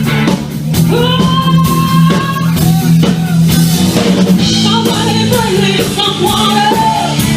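Live rock band playing loud, with drum kit and guitar, and a long held high note about a second in.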